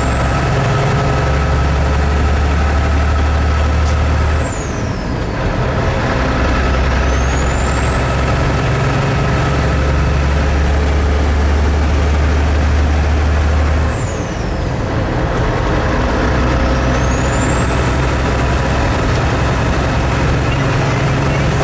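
Kenworth truck's diesel engine pulling under load, with a high turbo whistle over it. About four and a half seconds in and again about fourteen seconds in the engine note drops briefly and the whistle falls away, then the whistle rises again as the truck pulls through the next gear.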